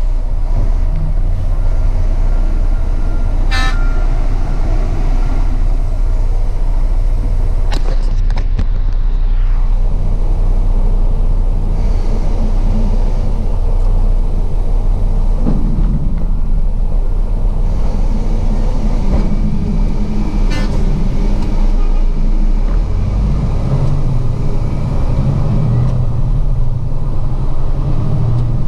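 Diesel truck engine running with road noise while driving, with a few sharp knocks partway through; the engine note changes near the end.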